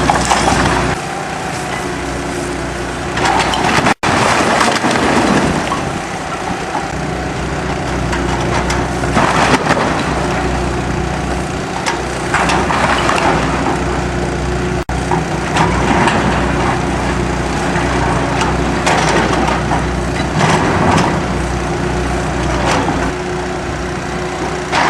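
Heavy demolition machinery's engine running steadily, with repeated bursts of cracking and splintering as a building's wooden structure is crushed and torn apart.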